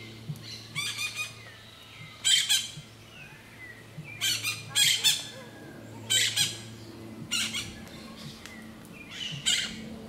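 Birds squawking loudly and harshly in short clusters every second or two, over a faint low steady hum.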